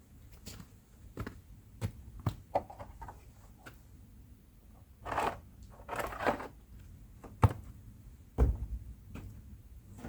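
Someone handling things: irregular light knocks and clicks, two brief rustling sounds about five and six seconds in, then a sharp knock and a heavy thud a second apart.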